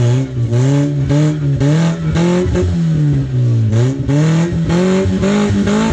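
Daihatsu Terios engine revving up and dropping back again and again while the stuck 4x4 tries to drive out of a muddy creek rut, with rough bursts of noise about twice a second.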